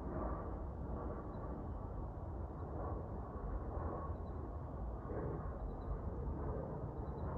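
Steady, even low rumbling background noise with no distinct events.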